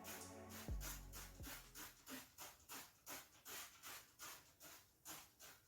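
Faint rhythmic scrubbing of an oven part that has been sprayed with cleaner, about three strokes a second. Background music with a deep bass beat ends about a second and a half in.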